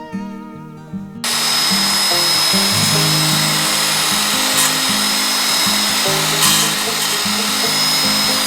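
Electric power tool running steadily with a high whine, starting abruptly about a second in and beginning to wind down at the very end, over acoustic guitar background music.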